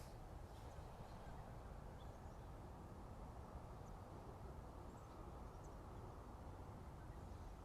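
A few faint, brief bird chirps, scattered and far apart, over a steady low background hiss of outdoor ambience.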